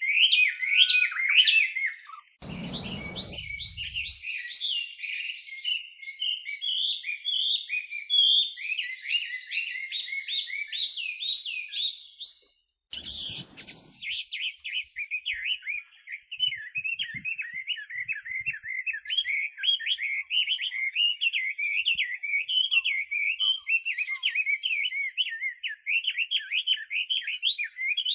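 Chinese hwamei (a laughingthrush) singing: a loud, varied song of quick whistled phrases, with series of rapid sweeping notes in the first half. In the second half it runs into a long stretch of fast, repeated slurred notes. The song breaks twice, with a short burst of noise, about two seconds in and near the middle.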